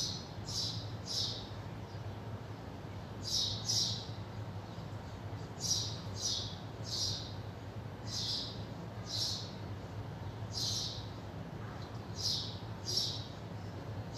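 A small bird chirping: short, high chirps, mostly in pairs, repeating every second or two, over a steady low hum.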